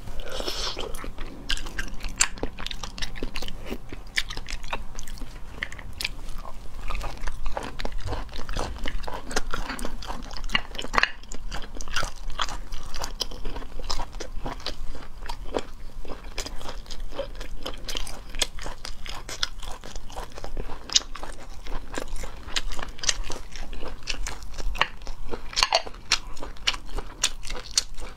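Close-miked chewing and biting of cooked sea snail meat: wet, crunchy mouth clicks coming thick and fast and unevenly.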